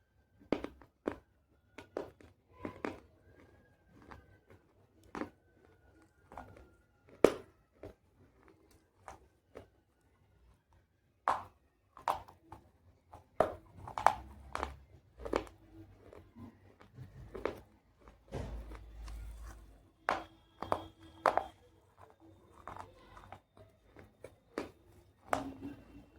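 Pieces of baked clay pot being bitten and crunched: a run of sharp, irregular cracks and snaps with chewing between them, and a pause of a few seconds about eight seconds in.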